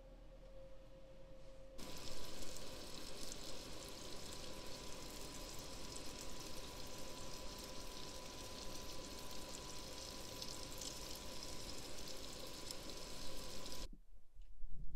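Sliced sausage sizzling as it fries in a pan, with a faint steady tone underneath. The sizzle starts abruptly about two seconds in and cuts off suddenly near the end.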